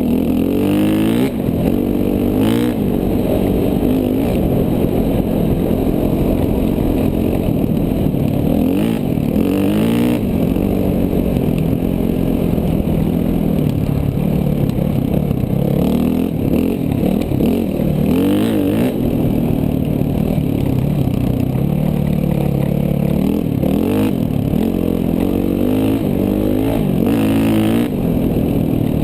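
KTM 450 dual-sport motorcycle's single-cylinder four-stroke engine, under way off-road, revving up and dropping back over and over as the throttle is worked. A few short knocks break in along the way.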